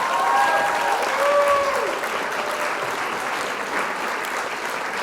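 Crowd applause, a steady clapping, with faint voices over it early on, cutting off suddenly at the end.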